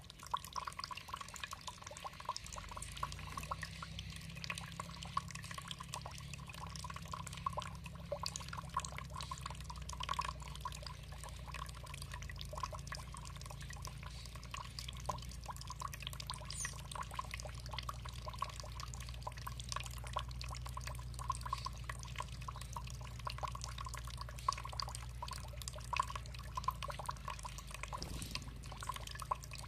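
Water trickling and dripping steadily, a dense patter of small splashes and drops.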